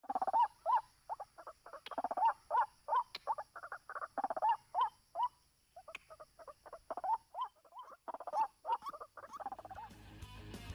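White-breasted waterhen calling: a fast series of short, loud calls, about three a second, breaking off briefly mid-way before resuming. Music fades in near the end.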